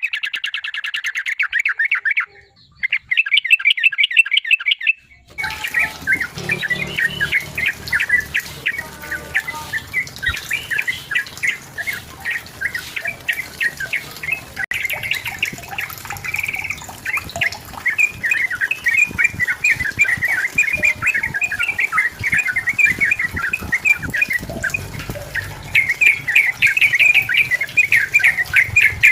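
Yellow-vented bulbul (trucukan) singing fast, bubbling, chattering phrases almost without pause. About five seconds in, a background hiss and low rumble join the song.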